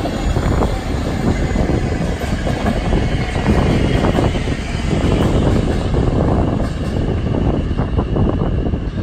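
South Western Railway Class 158/159 diesel multiple unit running past on the tracks and drawing away, a steady loud rumble of engines and wheels with irregular knocks from the wheels over rail joints and points.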